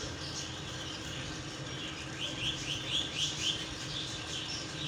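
Small birds chirping among the animals, with a quick run of short repeated chirps from about two seconds in, over a low steady hum.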